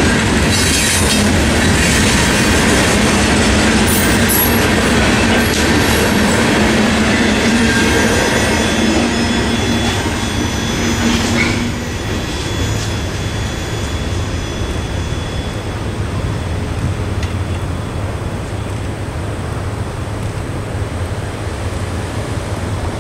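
Coal train's hopper cars rolling through a grade crossing, wheels clacking over the rail joints with a steady squeal, until the last car clears about twelve seconds in. After that a quieter, steady rumble remains.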